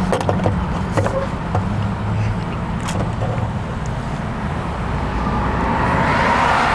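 Steady low hum of a motor vehicle engine running, with a few light clicks and knocks over it.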